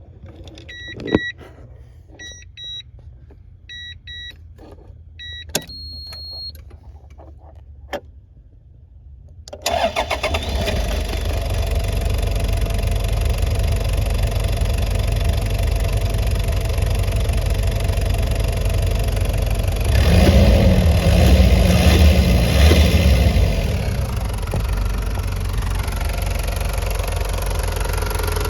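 Short electronic dashboard beeps and clicks in near quiet, then the Toyota HiAce KZH106's 3.0-litre 1KZ-TE turbo-diesel engine cranks and starts about ten seconds in and settles into a steady diesel idle. Its engine speed rises briefly about twenty seconds in, then drops back to idle.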